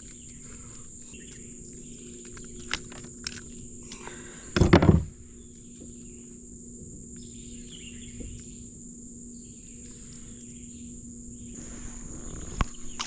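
Steady high-pitched insect drone, with a few light clicks and a loud thump about four and a half seconds in.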